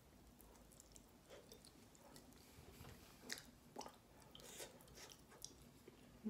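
Faint chewing of a breaded barbecue-sauced cauliflower wing: irregular soft crunches and mouth clicks, ending in a brief low hum.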